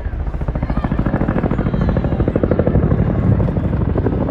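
Helicopter flying close by, its rotor blades making a rapid, even chop that grows louder to a peak about three seconds in.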